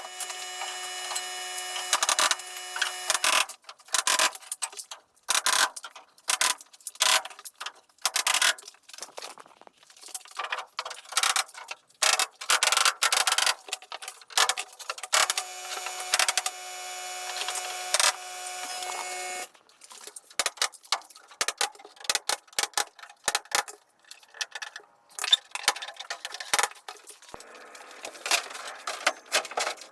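Carpentry work sounds: a power tool's motor runs steadily for a few seconds at the start and again for about four seconds around the middle, with many sharp knocks and clicks of wood being handled and fastened between.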